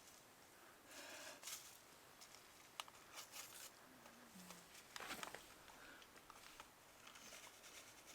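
Near silence with faint scattered rustling and a few light clicks.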